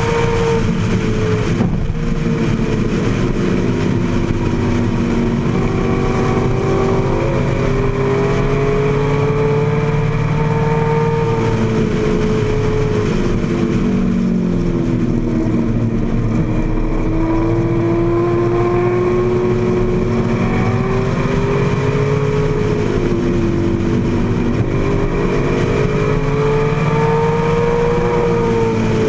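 AC Cobra's V8 engine running hard at racing speed, heard from the open cockpit, its note rising and falling with the throttle and dipping lowest about halfway through before climbing again.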